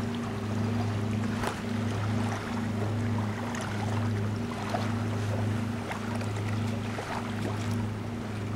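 Boat engine running with a steady low hum that wavers slightly, with scattered light clicks and ticks over it.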